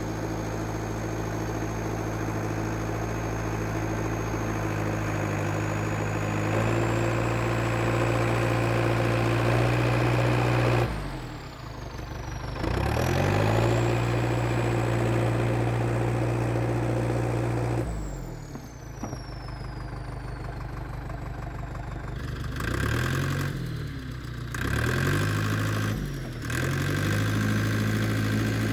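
IH TD8E crawler bulldozer's diesel engine running steadily. It picks up speed about a third of the way in, then dips and comes back up again several times: the throttle and load are changing as the dozer works.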